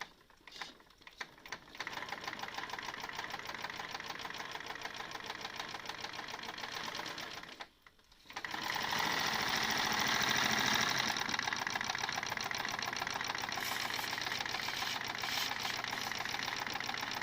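Steam engine on test, starting with a few irregular clicks and then running with a fast, steady mechanical beat. It stops briefly about eight seconds in, then picks up again louder, with more hiss along with the beat.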